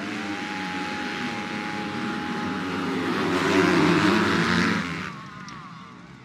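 250cc grasstrack motorcycles racing past at high revs, growing louder to a peak about four seconds in, then falling in pitch and fading as they move away.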